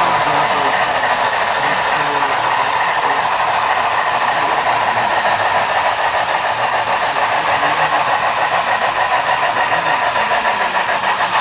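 HO-scale model freight train running on the layout, its wheels on the track making a steady, dense rolling noise. Faint voices sit underneath it.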